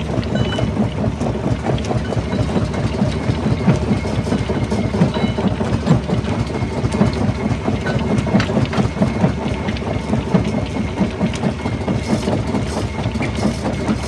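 Jaw rock crusher running: a steady low rumble full of dense, irregular knocks and rattling as stone is crushed between the jaws.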